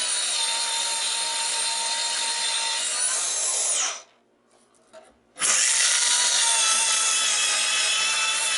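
Electric power tool whining steadily as it cuts through a transformer to free the copper windings. About four seconds in, it winds down and stops. After a second and a half of quiet with one small knock, it starts up again.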